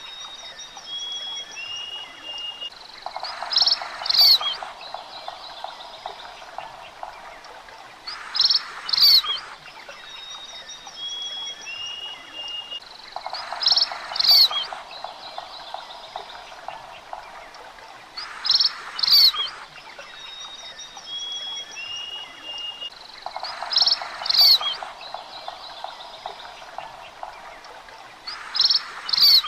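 Bird calls ringing out in short bursts about every five seconds, with a pulsing, croaking trill like a frog's every ten seconds and short thin whistles between them. The pattern repeats exactly, as a looped nature recording does.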